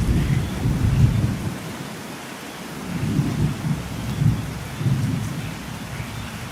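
Thunderstorm: steady rain hissing while thunder rumbles deeply, the roll fading out about a second and a half in and a second roll swelling up about three seconds in before dying away near the end.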